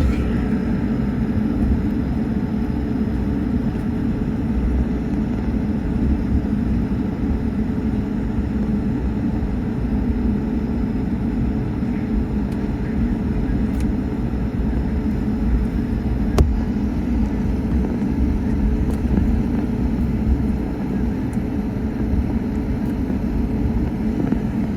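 Airbus A220 cabin noise while taxiing: a steady low rumble from its Pratt & Whitney geared turbofan engines and the rolling aircraft, with a faint steady hum. A single click comes about sixteen seconds in.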